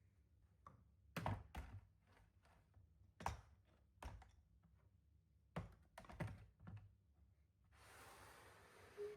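A series of light knocks and clicks, about eight, as objects are handled and set down, then a soft hiss lasting about a second near the end.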